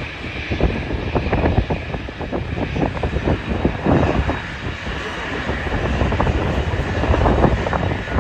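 Airliner jet engine noise, with wind buffeting the microphone in irregular gusts.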